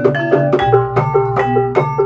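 Gamelan-style ebeg accompaniment: a quick run of struck tuned keys ringing one after another, about five or six notes a second, over low sustained tones and drum strokes.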